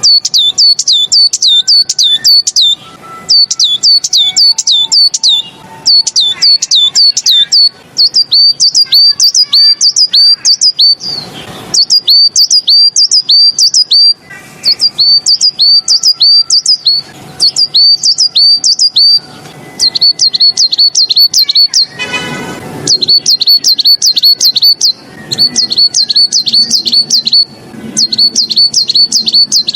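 Songbird singing a tutor song: phrases of rapid, repeated high chirps, each note dropping sharply in pitch, in runs of a few seconds with short pauses between them. A harsher, lower call breaks in about two-thirds of the way through.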